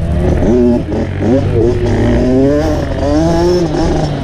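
Dirt bike engine running loud, its pitch rising and falling again and again as the throttle is opened and closed on the trail.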